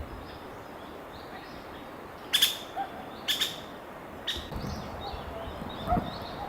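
Small birds chirping in the forest, short calls scattered throughout, with three sharp knocks about a second apart near the middle.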